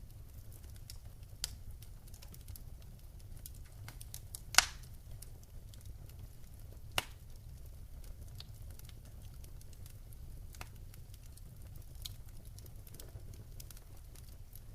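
Wood fire crackling in a fireplace: a steady low rumble with scattered small snaps and two louder pops, the loudest about a third of the way in.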